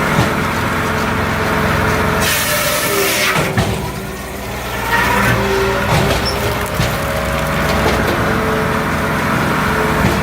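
Multitek 1620SS firewood processor running on its 44-horsepower diesel engine: a steady machine hum with a whining tone that sags and recovers as it works under load. A brief loud hiss about two seconds in.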